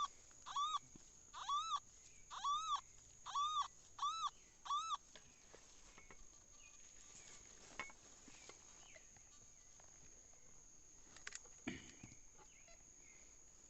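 An animal's call, a short arched note with a rise and fall in pitch, repeated about once a second six times and stopping about five seconds in. A steady high whine runs underneath, with a few faint clicks later.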